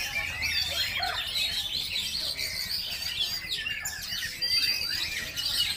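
Several oriental magpie-robins singing at once, a dense overlap of quick rising and falling whistles and chirps.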